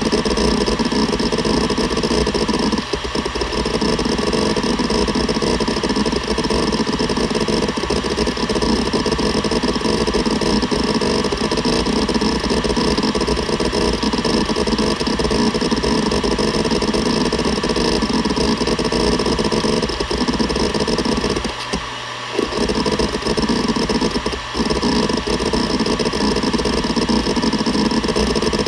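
Seagate Barracuda ES.2 ST31000340NS 1 TB 7200 rpm hard drive seeking continuously, a dense chatter of head movements over the spinning platters. The chatter pauses briefly about three seconds in and twice more in the last third.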